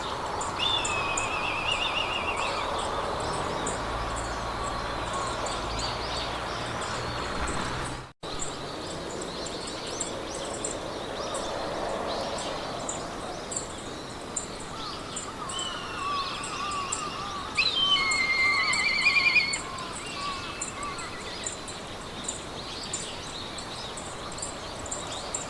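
Meadow ambience of songbirds singing trilled phrases, loudest about two-thirds of the way through, over a steady hiss of wind in grass. A high, regular chirp repeats about twice a second. The sound drops out briefly about 8 seconds in.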